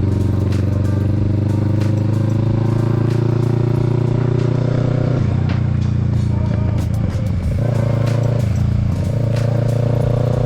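Kawasaki Z650's parallel-twin engine pulling under acceleration, its pitch rising steadily, dropping briefly about halfway through and again near the end as the rider shifts up a gear.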